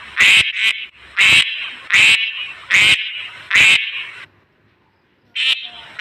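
A farm animal calling over and over: about five short, loud calls at a steady pace, each sharp at the start and trailing off. The calls break off for about a second near the end, then start again.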